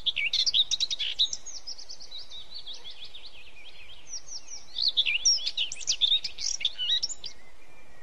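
Birds chirping: rapid high chirps and twitters, busiest in the first second and again from about five seconds in, stopping shortly before the end.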